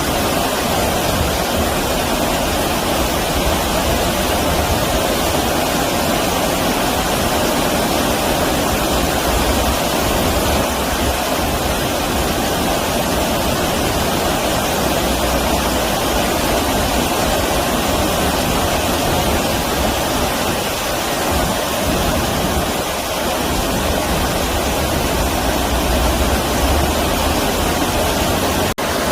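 Stream water rushing steadily over rocks, a continuous even rush, with a momentary break near the end.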